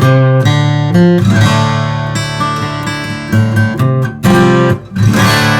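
Steel-string acoustic guitar played with plucked chords and bass notes, each new note or chord coming in with a sharp attack. There is a brief dip in the playing a little before the end.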